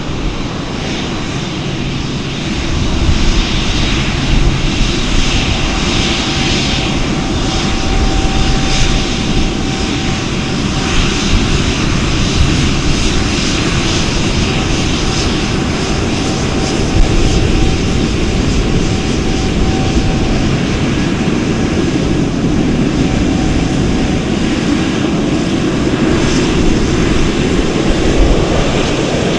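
Airplane engines running loud and steady, the noise swelling about three seconds in and holding, with a faint steady whine through the middle.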